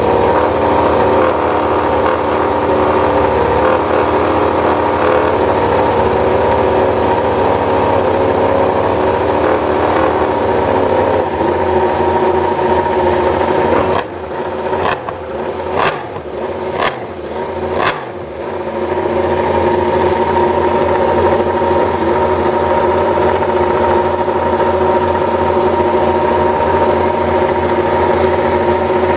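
Yamaha YZR-M1 MotoGP bike's inline-four engine running steadily at held revs. Between about 14 and 18 seconds in it dips several times in quick succession, then settles back to the same steady running.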